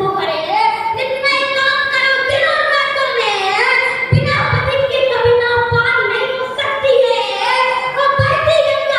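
A child's high voice declaiming verse in a sung, chanting style, with long held notes that bend up and down.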